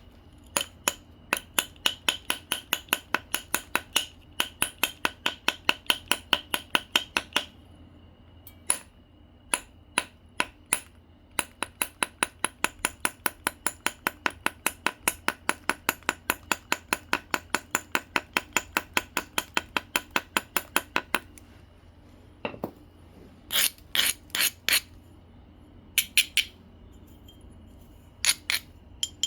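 Obsidian biface being knapped: long runs of sharp, glassy clicks, about four a second, as the stone edge is struck or worked with knapping tools. Near the end only a few short clusters of clicks.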